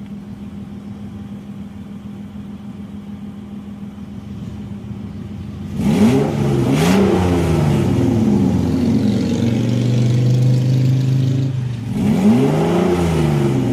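Car engine idling steadily, then revved up and down several times from about six seconds in, held at higher revs for a couple of seconds, then blipped again near the end. The engine has just been treated with Seafoam.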